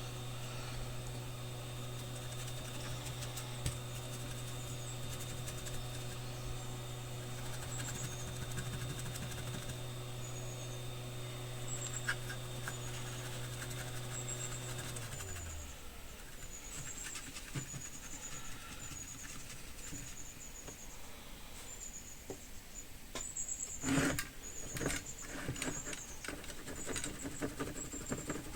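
A small fan motor hums steadily, then is switched off about halfway through and winds down with a falling pitch. After that come scattered clicks and scrapes, with a louder clatter near the end.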